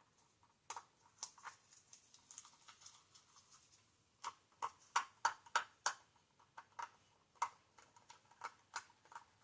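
Irregular sharp clicks and light taps of plastic resin bottles and cups being handled, some in quick runs of several a second, about four seconds in.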